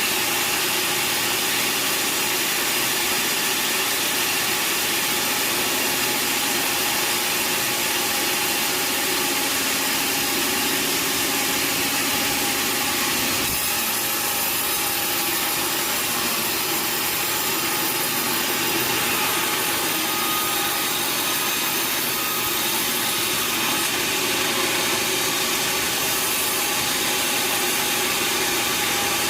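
Sawmill saw running and cutting through a log, a steady, unbroken noise with a faint whine.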